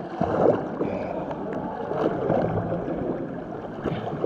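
Water sloshing and splashing close to the microphone, a continuous rough, muffled churning.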